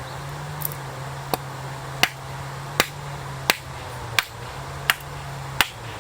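A series of sharp, evenly spaced knocks, about one every 0.7 seconds, over a steady low hum.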